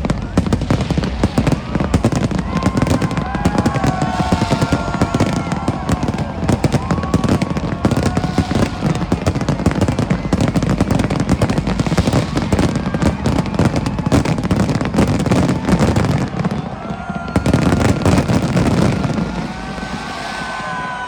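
Fireworks display: a rapid, dense barrage of bangs and crackles, thinning out about three-quarters of the way through.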